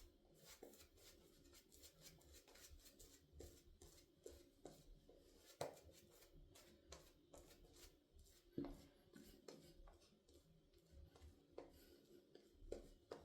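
Faint, rapid scratchy strokes of wet shaving on a lathered face, from the safety razor or the shaving brush working the skin, with a couple of slightly louder strokes near the middle.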